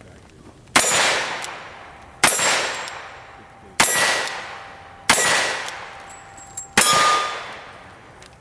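Five gunshots about a second and a half apart, each followed by a long metallic ring fading away: steel targets being hit in a cowboy action shooting stage.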